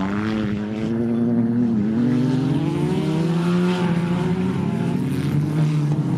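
Engines of several banger racing cars running together on the track, their pitch rising and falling as they race around the circuit.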